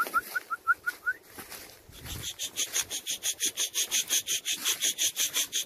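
Small birds calling: a quick series of short rising chirps for about a second, then from about two seconds in a louder, fast rhythmic trill of high notes, about eight a second.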